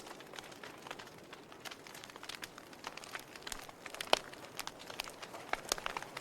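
Wood fire burning: a soft steady hiss with irregular crackles and pops, the strongest about four seconds in.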